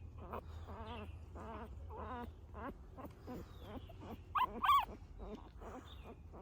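Newborn puppies whimpering and squealing: a string of short, wavering, high-pitched cries, with two louder squeals about two thirds of the way through.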